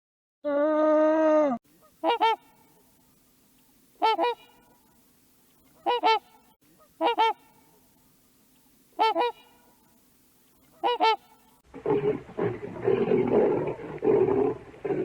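Goose honking: six short, separate honks spaced one to two seconds apart. It opens with the end of a longer, drawn-out animal call, and near the end a loud, rough, noisy animal sound takes over.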